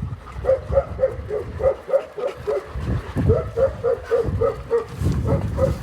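A dog whining in a long run of short, evenly repeated high notes, about four a second.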